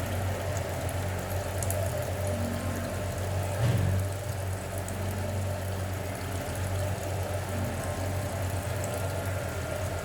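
A steady low mechanical hum, like a running motor or idling engine, with a brief swell a little before the middle.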